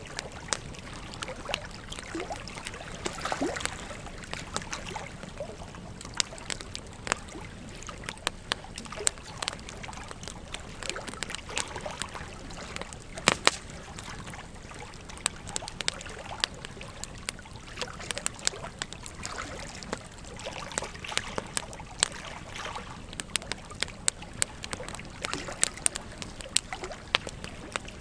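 Wood campfire crackling with frequent irregular sharp pops, the loudest about halfway through, over the steady rush of a flowing river.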